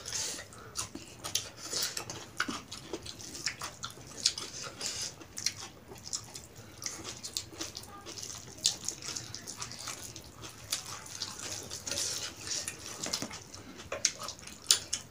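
Close-up eating sounds from people eating chicken and rice by hand: wet chewing and lip-smacking, with many irregular small clicks and crackles.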